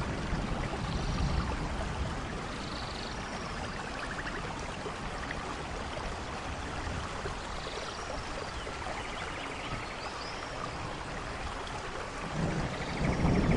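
Steady rain falling, with a low rumble of thunder fading at the start and another swelling in near the end. A few short, high chirps sound faintly over the rain.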